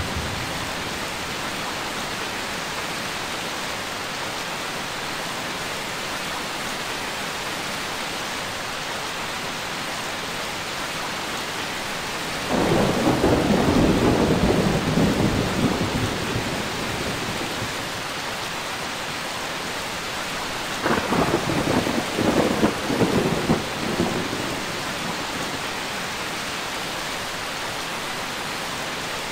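Steady rain falling, with two rolls of thunder. The first rumbles for several seconds a little under halfway through; the second, about two-thirds of the way through, starts with sharp crackles.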